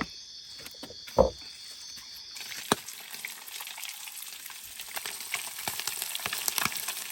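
Fish frying in hot oil in a pan: from about two and a half seconds in, a dense sizzle and crackle of popping oil sets in. Before that, steady high insect buzzing with two knocks, the louder one about a second in.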